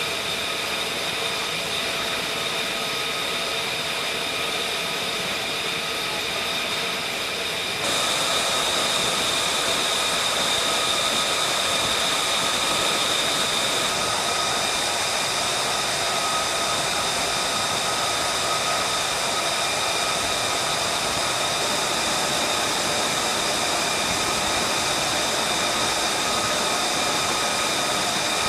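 Jet engine running steadily at idle: a loud rushing noise with a high steady whine. About eight seconds in it abruptly becomes louder and the pitch of the whine changes.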